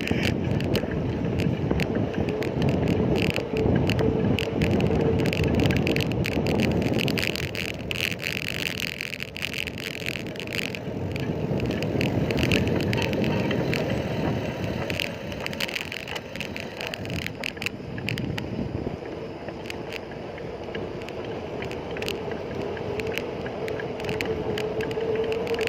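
Bicycle riding on a road: wind buffeting the microphone and tyre and road noise, with scattered clicks and rattles. A steady hum runs underneath and rises slightly near the end.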